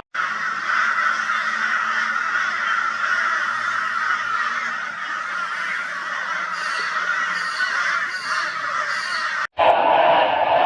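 A flock of crows calling loudly together in a continuous, raucous din, the alarm clamour of crows mobbing a barn owl. It cuts off abruptly about nine and a half seconds in and picks up again louder and lower-pitched.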